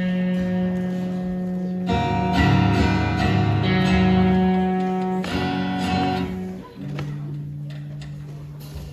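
Guitar chords strummed and left to ring, changing about every couple of seconds and dying away near the end, as the band warms up before the song.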